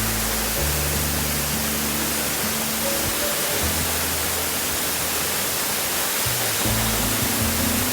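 Steady rushing noise of a waterfall, mixed with background music of slow, held low notes that change every second or two.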